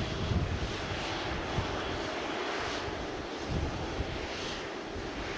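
Jet airliner's engines at an airport, a steady rushing noise over an uneven low rumble.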